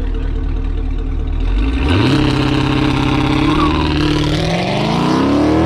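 Swapped 5.3-litre Chevrolet LS V8 in a BMW E36 running low, revving up about two seconds in and holding, then climbing steadily in pitch near the end as the car accelerates away.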